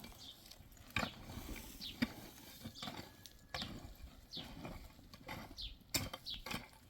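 Repeated short, high chirps falling in pitch, from a small bird, roughly once a second, with a few sharp knocks.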